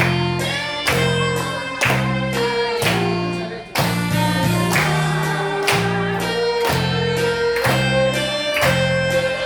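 Saxophone playing a slow melody of held notes over a backing track with a steady beat about once a second and a bass line.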